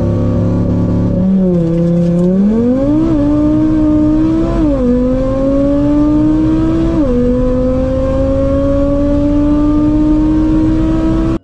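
Tuned VW Golf 7 R's turbocharged 2.0-litre four-cylinder, at about 700 hp, under full-throttle acceleration from a standstill, heard from inside the cabin. The engine note rises through each gear and drops sharply at each quick upshift of the dual-clutch gearbox in Sport mode, going from first to fourth gear, the last shift about two-thirds of the way through.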